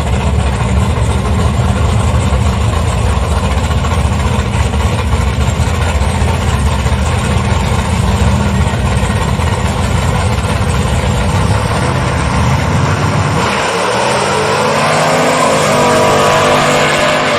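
Drag-racing engine running with a heavy, steady rumble, then, from about thirteen seconds in, rising steadily in pitch as it accelerates hard.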